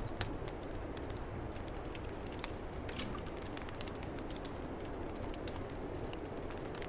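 Wood fire crackling in a fireplace, with scattered sharp pops, over the steady low rush of snowstorm wind.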